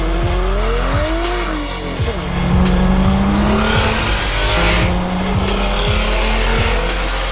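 BMW 335i's N54 straight-six, converted to a single Precision 6266 turbo, revving under load. The engine note climbs and then falls over the first two seconds, then climbs again. Background music with a steady beat plays underneath.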